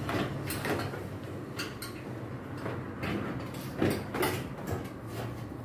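Scattered knocks and clicks of a washing machine's front panel and door lock being handled and fitted, over a low steady hum.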